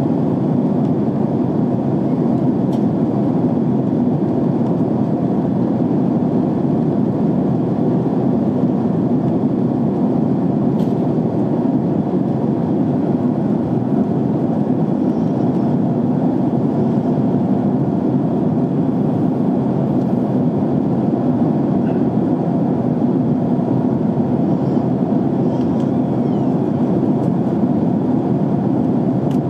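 Steady cabin noise of a jet airliner in flight: an even, low rushing sound of airflow and engines that does not change.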